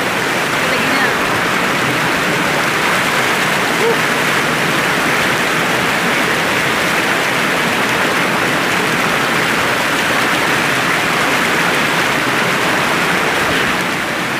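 Spring water rushing steadily in a strong current, a loud, even, unbroken sound of flowing water.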